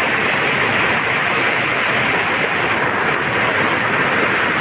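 Flash-flooded mountain stream (gadhera) in spate after heavy rain: a loud, steady rush of fast, churning floodwater.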